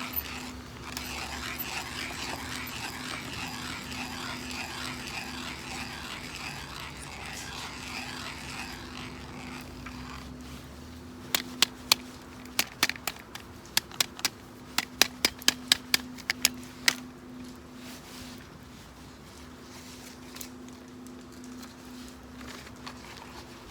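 Small wood fire crackling and hissing, then a quick run of sharp snaps, about fifteen in five seconds, over a low steady hum.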